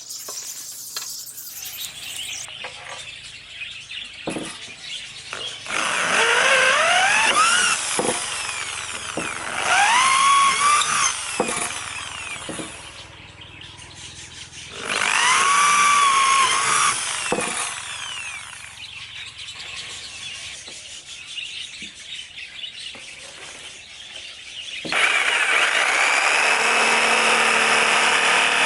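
Electric jigsaw motor spinning up in three short runs of a couple of seconds each, its whine rising in pitch, with a few knocks of wood in between. Near the end it starts again and runs steadily.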